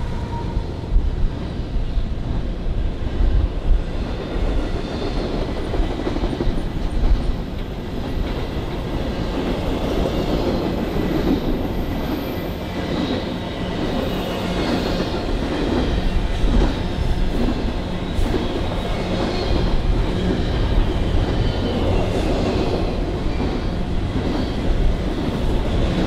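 A train's cars rolling past on the rails: a steady rumble of wheels with occasional sharp clicks.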